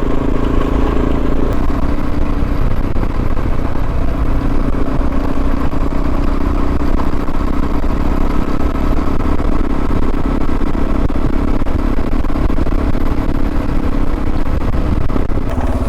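Suzuki DR650's single-cylinder engine running at a steady pitch while the motorcycle is ridden at an even speed.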